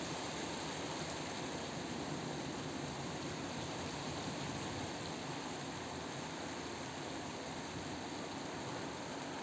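Steady rain falling in a thunderstorm, an even hiss with no distinct strikes or claps.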